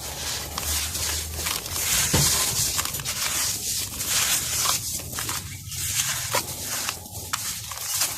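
Dusty, grainy moulded material crumbling and being crushed, a dense crackle of small gritty crunches.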